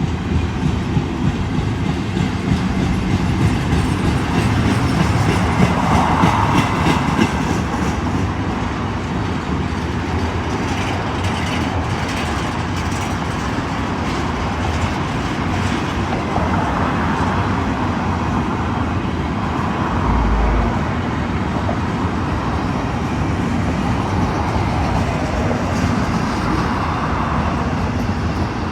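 Cars of a long intermodal freight train rolling past close by: a steady wheel-on-rail rumble and clatter with scattered clicks.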